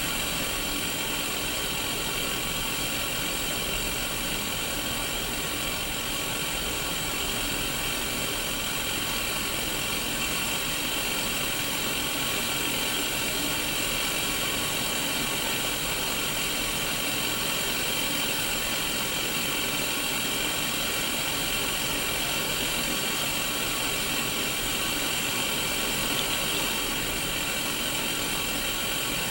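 Steady white-noise static hiss from a Sony Mega Watchman black-and-white mini CRT TV's speaker, the set showing snow on an untuned channel. The hiss is even and unchanging, brightest in the upper-middle range.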